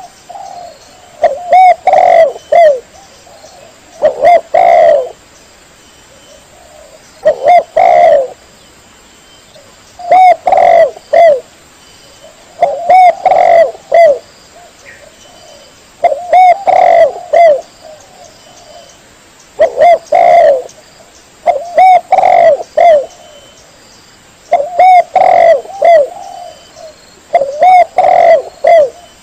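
Spotted dove (tekukur) cooing: short phrases of a few curved coo notes, repeated about every three seconds with pauses between.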